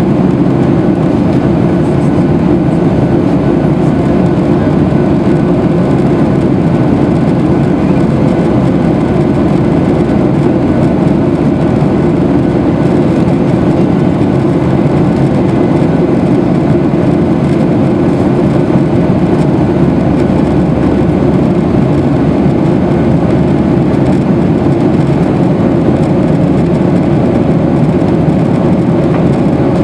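Steady, loud cabin noise of a Boeing 737-800 at high thrust after takeoff: its CFM56 engines and the airflow make a constant deep rumble with faint steady engine tones above it.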